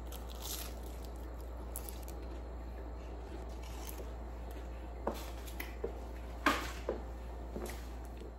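A person chewing air-fried shrimp over a steady low hum. A few sharp clicks and knocks come between about five and seven seconds in, the loudest near six and a half seconds.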